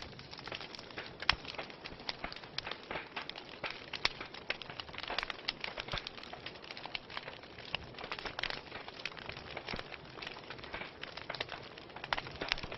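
Wood fire burning in a fireplace, crackling and popping with many irregular sharp snaps over a soft steady hiss.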